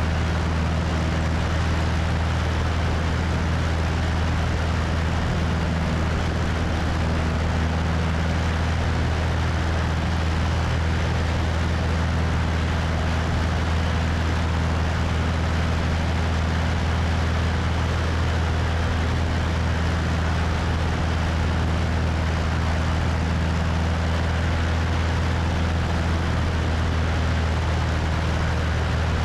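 Cessna 172's piston engine and propeller droning steadily in flight, with wind rushing over the wing-mounted microphone.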